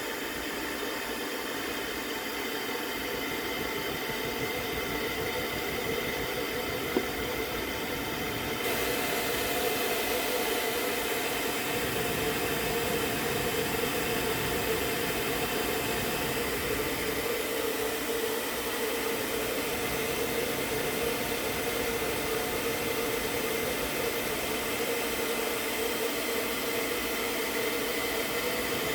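Hair dryer running steadily, a hiss with a hum in it, blowing over freshly poured epoxy resin to push it into ocean-wave patterns. It gets louder and brighter about nine seconds in, and there is a single click about seven seconds in.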